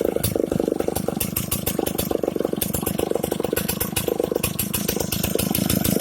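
Vintage Solo 620 two-stroke chainsaw engine running steadily, with a rapid, even firing.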